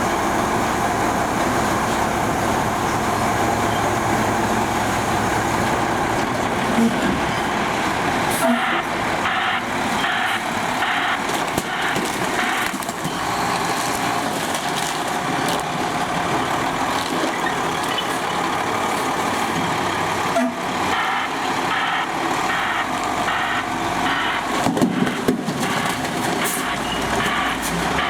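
A recycle truck running steadily, with a few sharp knocks along the way.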